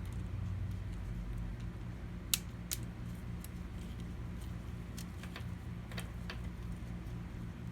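Scattered small sharp clicks and taps of computer hardware being handled, the loudest two about two seconds in, over a steady low hum.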